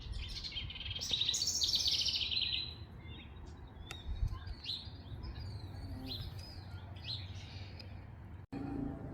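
Songbirds singing: a loud run of fast repeated high notes for the first few seconds, then scattered short chirps, over a steady low rumble. The sound drops out for an instant near the end.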